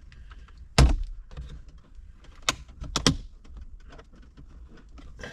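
Sharp clicks and knocks of a plastic interior trim cover being pried loose from its clips: a loud one about a second in, then two more a little after two and a half and three seconds, with faint handling rustle between.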